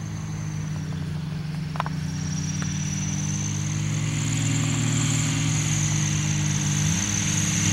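Kitfox light airplane's engine and propeller running steadily, a low drone with a high whine above it, growing gradually louder.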